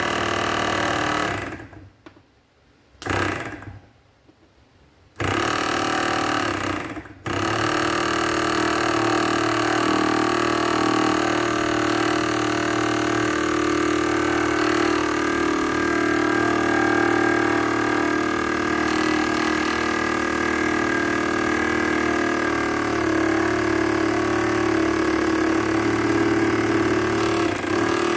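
Rebuilt 12-volt air-suspension compressor (rated 200 PSI, 23 A) running on a test after its cylinder and piston were cleaned up. It starts and stops a few times in the first seven seconds, then runs steadily with a constant hum to the end.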